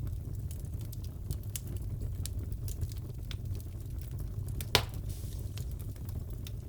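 Crackling wood fire in a fireplace: a steady low rumble with scattered sharp crackles, and one loud pop about two-thirds of the way through.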